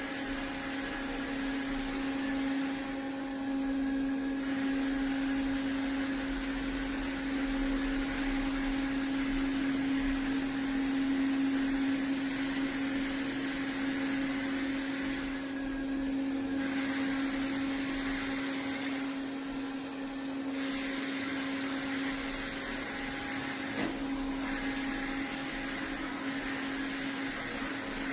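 iRobot Roomba Plus 405 Combo robot vacuum running: a steady motor hum under a whirring hiss. The hiss dips for a moment a few times and then comes back.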